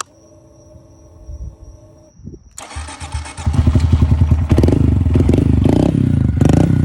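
A faint steady whine, then a 2022 Honda Grom's 125 cc single-cylinder four-stroke is cranked and catches about two and a half seconds in. It runs loud through a Yoshimura dual high-mount aftermarket exhaust and is blipped a couple of times.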